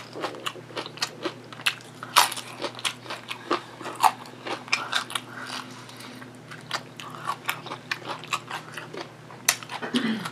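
Close-miked eating: wet chewing with crunching of tortilla chips and lettuce, irregular mouth clicks and smacks throughout.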